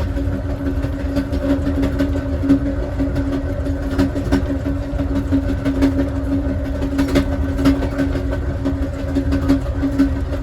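Ride noise of the Southwest Chief passenger train rolling along the track, heard from inside the last car: a steady low rumble with a constant hum and occasional faint clicks.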